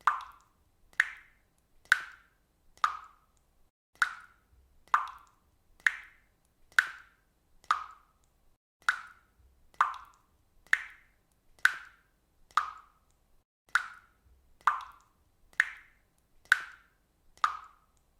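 Water dripping steadily, one drop roughly every second, about nineteen in all. Each drop is a short, sharp sound that dies away quickly.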